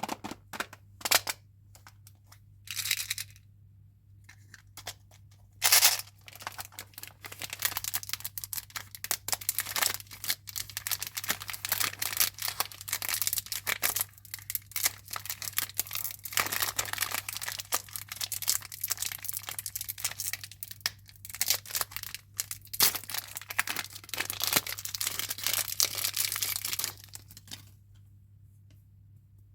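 Chewing gum packaging being torn open and its wrappers crinkled. A few separate sharp tears and rustles come in the first six seconds, then steady crackly rustling runs for about twenty seconds and stops abruptly near the end.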